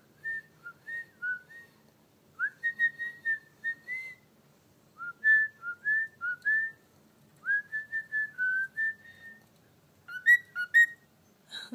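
Cockatiel whistling a tune in short phrases of clear notes, some sliding up or down, with pauses between phrases and a quick run of notes near the end.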